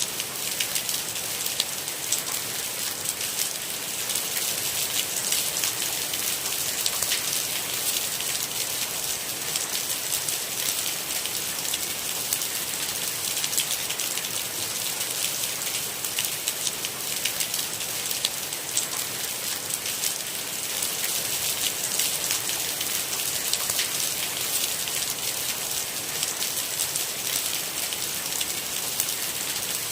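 Steady rain falling, an even hiss thick with fine drop ticks, strongest in the high range, with no thunder.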